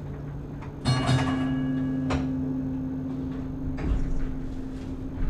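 Vintage electric streetcar running with a steady low hum. About a second in there is a sharp metallic strike with a brief ringing, and the hum changes pitch; a single click follows a second later.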